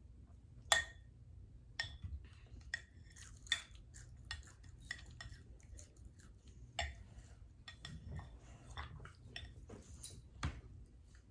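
Spoons and forks clinking against plates and bowls in scattered sharp clicks, the loudest about three quarters of a second in, with quiet chewing between.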